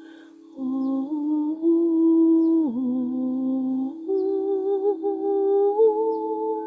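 A voice humming a slow, wordless tone over a singing bowl's steady ringing, coming in about half a second in after a brief lull. The hum dips in pitch about two and a half seconds in, then settles and continues.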